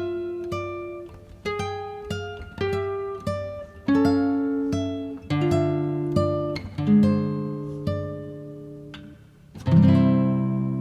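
Slow background music of single plucked string notes, each note ringing out and fading, with a fuller chord struck near the end.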